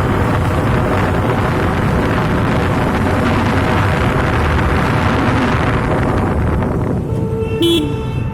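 Yamaha FZ motorcycle being ridden, its engine running under loud wind noise on the microphone. About seven seconds in the wind noise drops away, leaving steady tones.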